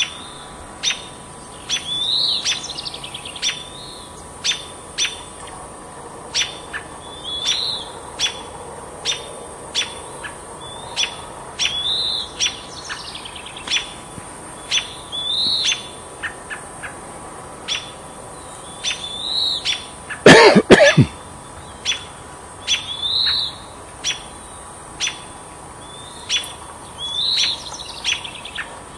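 Small birds calling: sharp chip notes repeated one to two times a second, with a rising call about every four seconds. A brief loud noise cuts in about two-thirds of the way through.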